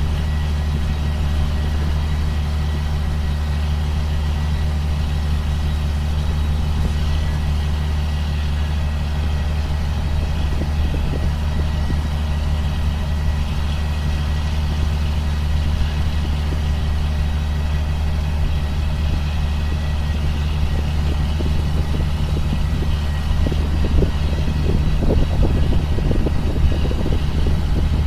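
2005 John Deere self-propelled sprayer's diesel engine running steadily with a deep drone. It grows louder and rougher, with rattling, over the last few seconds.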